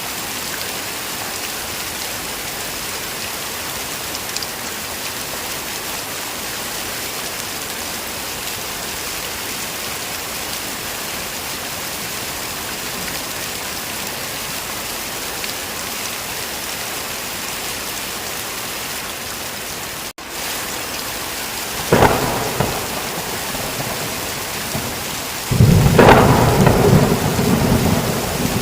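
Steady heavy rain. About two-thirds through, the sound cuts out for an instant. A sharp thunderclap follows, and near the end a louder, long rolling rumble of thunder.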